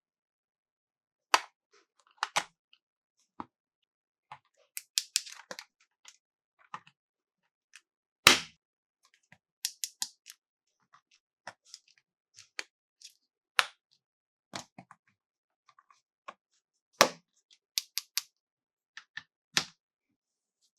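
Scattered sharp clicks and knocks of hard plastic toy parts and packaging being handled and set down. There is a quick run of clicks about five seconds in, and the loudest knocks come about a second in, about eight seconds in and near seventeen seconds.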